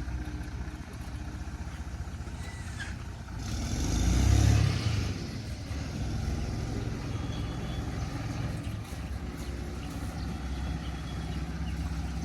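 JCB 3DX backhoe loader's diesel engine running steadily, swelling louder for about a second and a half around four seconds in.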